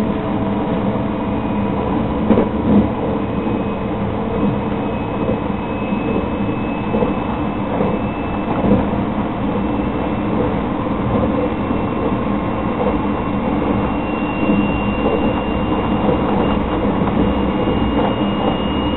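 Cabin noise inside a JR 681/683 series limited-express electric train running at speed: a steady rumble of wheels on rail, with a faint high whine that slowly rises in pitch.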